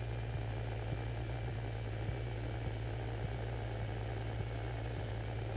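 Cessna 152's Lycoming O-235 four-cylinder engine and propeller running steadily at idle power, heard from inside the cockpit during the landing roll of a touch-and-go.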